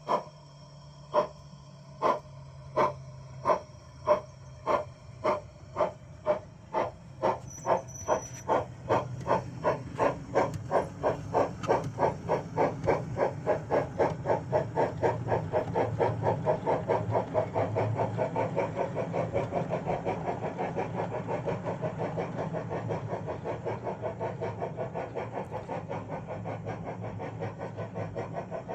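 Sound-fitted O gauge model steam locomotive pulling away: the chuffs start about a second apart and steadily quicken to several a second, over a steady low hum.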